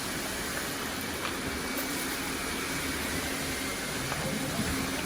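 A large group of robot vacuums running at once over a rice-covered floor: a steady, dense whir of many motors and brushes, with a few faint clicks.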